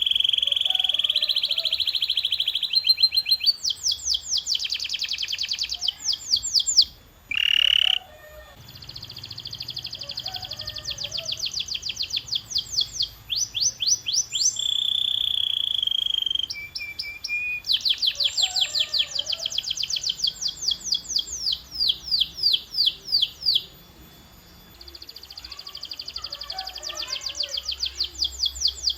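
Domestic canary singing: fast trills of rapidly repeated notes in phrase after phrase, broken by a few held whistled notes and a quick rising sweep about seven seconds in.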